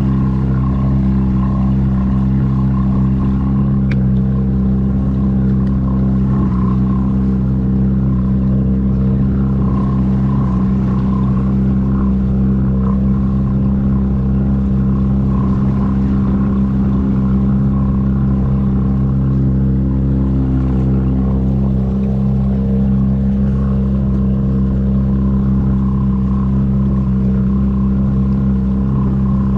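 An engine running steadily at an unchanging speed, giving a constant low drone.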